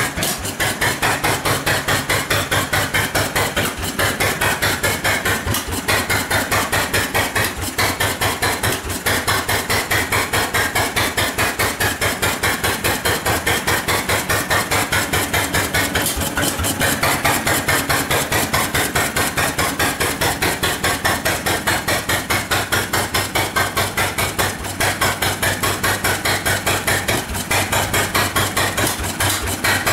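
Cérès M1B series 4 stationary engine running with a fast, even run of sharp knocking beats. Its loudness dips briefly every couple of seconds.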